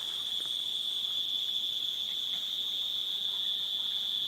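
Steady, high-pitched chirring of a cricket and insect chorus, one even unbroken drone.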